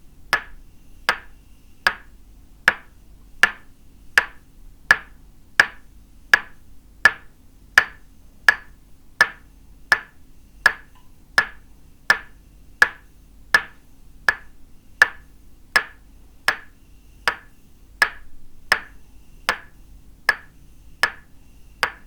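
Tok sen massage: a wooden mallet tapping a wooden stake held against the body, an even knock about every three-quarters of a second, each with a short ring.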